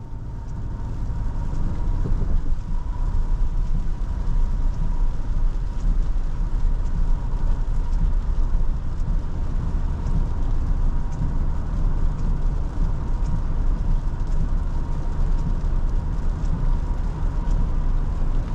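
Steady road rumble and wet-tyre hiss inside the cabin of a 2023 Toyota Tundra 1794 pickup under way in the rain, with a faint steady high whine running through it.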